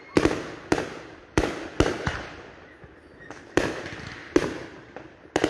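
Fireworks exploding: about nine sharp bangs at uneven intervals, each trailing off in an echo.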